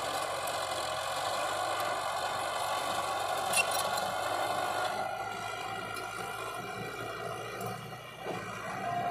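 Heavy construction machinery engine running steadily, with a brief click about a third of the way in.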